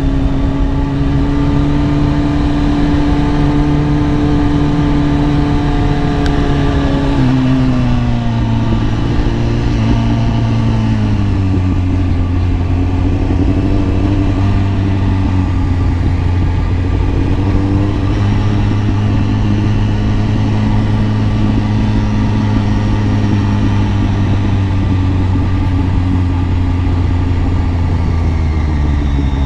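Kawasaki ZX10R's inline-four engine running under way, heard from the rider's seat. It holds steady revs, then the pitch drops in two steps about seven and ten seconds in and settles on a lower steady note. Near the end the revs dip and climb again.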